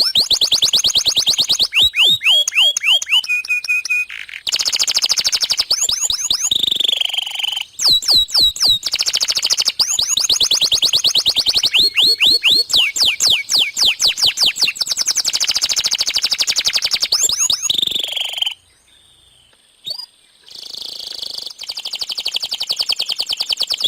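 Domestic canary singing a long, fast song: rapid trills of repeated downward-sweeping whistled notes and quick buzzy rolls, with a pause of about two seconds near the end.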